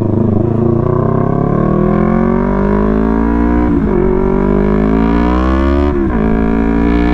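Yamaha R3 parallel-twin motorcycle engine accelerating under load. The revs climb steadily, drop sharply at an upshift about four seconds in, climb again, and drop at a second upshift about six seconds in.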